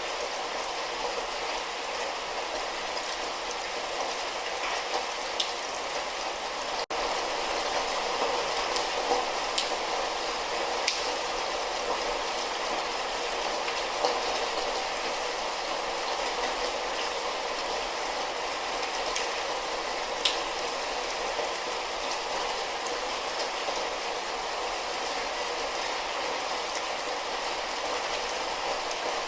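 Light rain falling steadily, an even hiss with a few louder single drops ticking now and then. The sound breaks off for a split second about seven seconds in.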